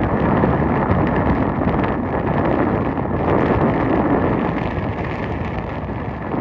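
Strong wind blowing across the microphone: a loud, steady rush with no letup.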